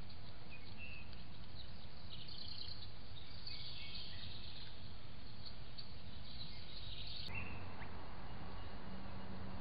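Small birds chirping in many short, high calls over the steady hiss of a trail camera's microphone. About seven seconds in the background changes abruptly, and a faint steady hum follows.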